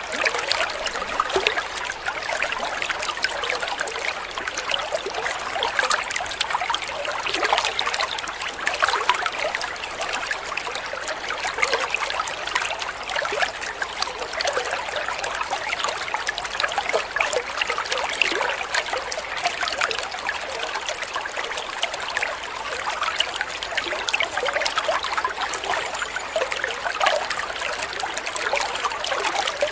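Shallow water trickling and babbling over stones in a small stream, a steady run of small splashes.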